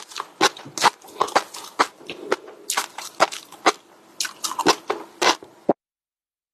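Close-miked crunchy chewing and biting: a dense run of sharp crunches, two or three a second, that cuts off suddenly near the end.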